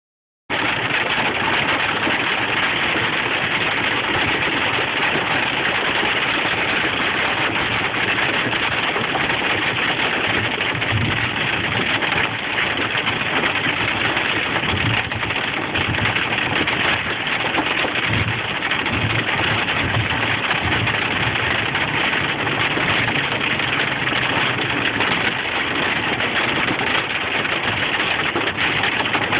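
Hail coming down hard: a dense, steady clatter of many hailstones hitting at once.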